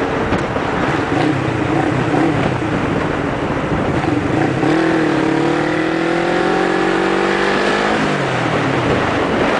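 Motorcycle engine heard from the rider's position under wind rush, revs climbing steadily through a gear from about halfway through, then dropping sharply near the end as the throttle closes.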